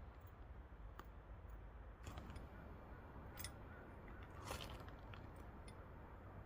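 Faint, scattered clicks and crunches, a few spread about a second apart, over a low steady rumble.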